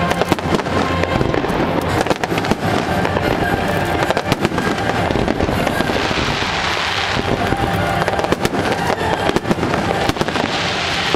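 Aerial fireworks exploding in a dense, rapid barrage, bang after bang overlapping, with a hissing spell about six seconds in.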